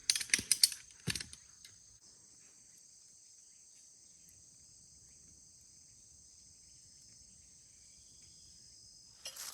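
Crickets chirring steadily in a continuous high trill. A few sharp clicks and knocks come in the first second and a half, and more start just before the end.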